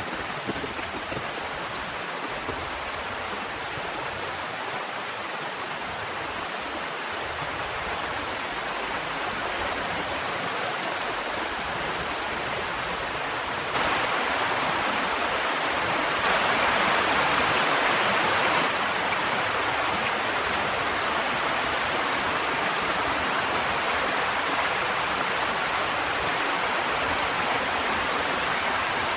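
Heavy rain falling in a steady hiss. It gets abruptly louder about halfway through, and louder still for a couple of seconds soon after.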